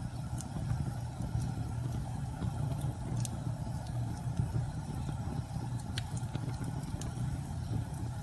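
Steady low rumble of a winter windstorm and fireplace ambience, with sparse faint crackles from the burning fire.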